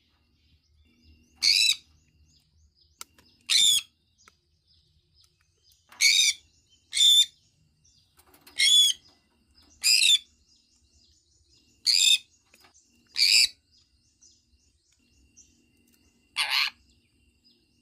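Sun conure calling: about nine short, loud, high calls, one every one to three seconds, with a longer gap near the end.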